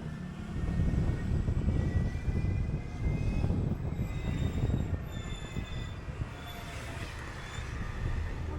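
City bus under way: engine and road rumble, with a faint high whine that drifts slightly in pitch.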